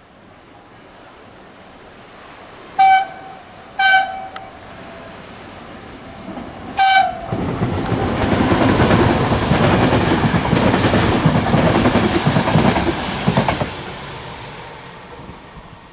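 E.464 electric locomotive sounding its horn in three short blasts, then hauling a four-coach Intercity train close past: a loud rush of the locomotive and coaches with wheels clattering over the rails, fading as the driving trailer goes by.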